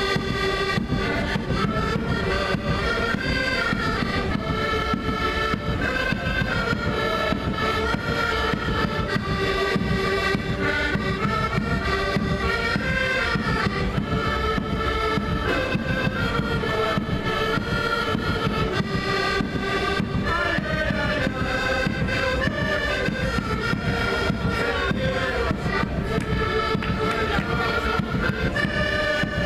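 Live music from a folk group: a continuous melody on sustained-tone instruments over dense, steady drumming.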